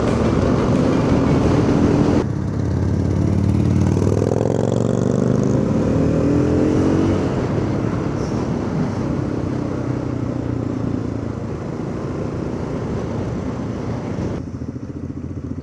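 Motorcycle engine running on the road with wind rush; about four seconds in it accelerates, its pitch rising for a few seconds before settling to a steady cruise. The sound shifts abruptly twice, near two seconds and near the end.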